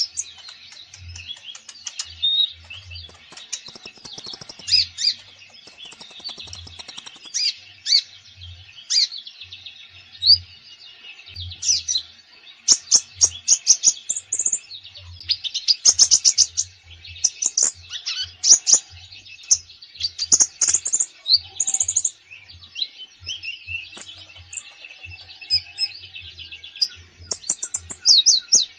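A konin songbird singing nonstop, a dense run of varied chirps, rapid trills and quick up-and-down whistled phrases with few gaps, its full repertoire including imitated phrases from other birds.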